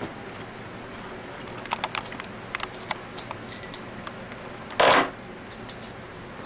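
Small metal scroll-pump parts being handled: a run of light metallic clinks and rattles, then a short, louder noisy burst about five seconds in.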